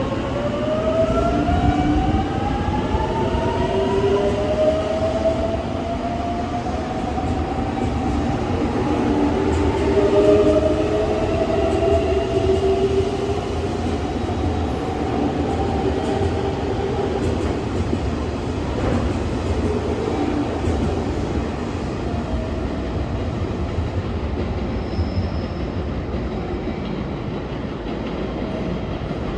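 Electric train pulling away, its motors whining in several tones that rise together over the first few seconds as it accelerates, over a continuous rumble of wheels on rails with some clicking over the rail joints.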